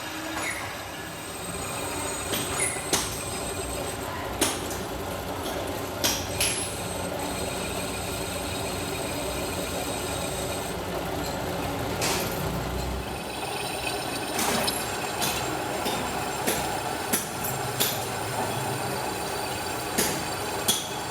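Factory machinery running steadily, with sharp clanks and knocks every second or few, in a workshop making hydraulic cylinders.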